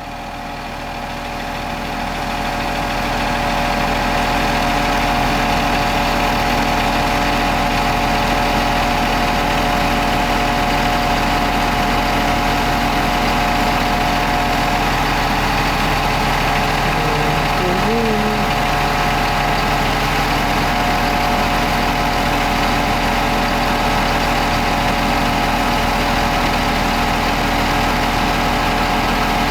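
An engine running steadily with a drone that holds one pitch, getting louder over the first few seconds and then staying level.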